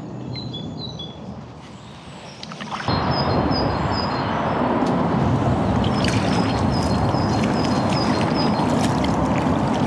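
Small birds chirping over quiet surroundings, then about three seconds in a loud, steady rushing noise cuts in suddenly, with a bird repeating a short high note over it at an even pace.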